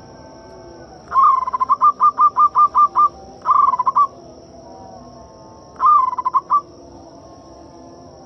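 Zebra dove (perkutut) cooing: three phrases of quick repeated staccato coos. The first, about a second in, is the longest at roughly two seconds; the two after it are shorter.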